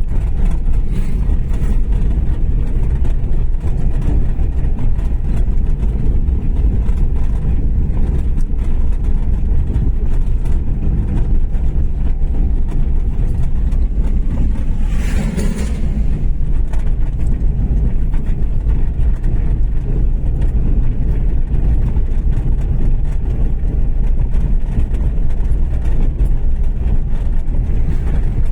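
Steady low rumble of a car on the move, with road and engine noise heard from inside the car. About halfway through there is a brief hissing swell.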